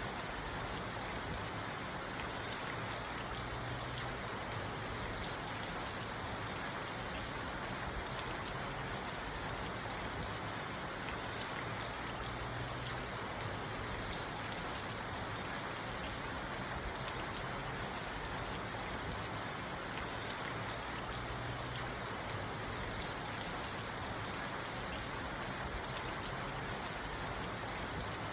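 Steady rain falling on a parked car, heard from inside the cabin: an even hiss with scattered fine drop ticks on the roof and glass.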